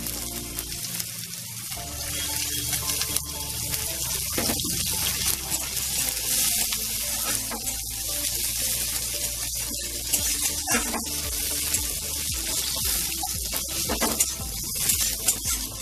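Chopped onion frying in hot oil in a metal kadai, a steady sizzle, with a metal spatula now and then scraping and knocking against the pan.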